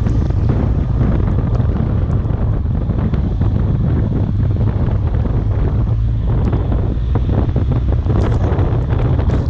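Heavy wind buffeting the microphone: a loud, steady low rumble with a fluttering hiss over it.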